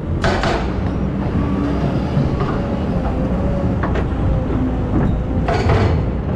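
Excavator's diesel engine running steadily under load, with a wavering hydraulic whine and occasional clanks. Two short harsh bursts of scraping noise come just after the start and again near the end.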